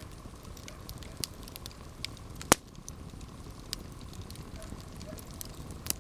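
Campfire burning, with a low steady rush and scattered crackles. One sharp, loud pop about two and a half seconds in.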